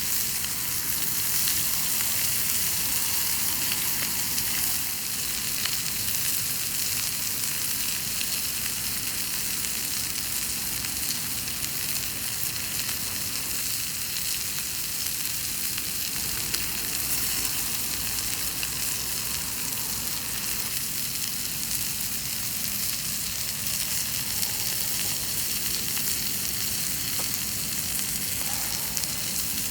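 Chicken thigh sizzling steadily in a cast-iron skillet over a campfire, a constant frying hiss with small crackles and spits.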